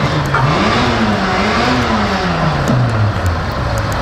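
Racing car engine revving, its pitch climbing and falling twice as the throttle is opened and eased, then dropping away near the end.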